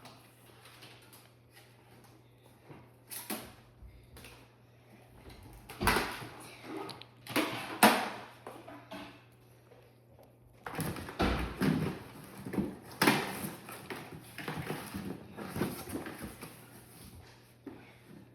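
Irregular clunks, knocks and rustling of objects being handled and moved, loudest around six to eight seconds in and again from about eleven seconds on, over a faint steady low hum.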